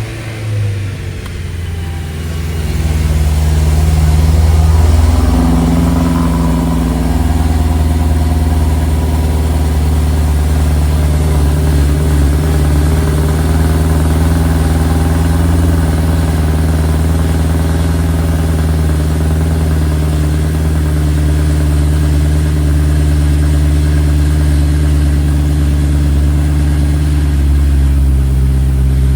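2011 BMW M3 sedan's 4.0-litre V8 starting up: it catches right at the start, the revs climb to a high idle that peaks about five seconds in, then drop back around six to seven seconds in to a steady idle.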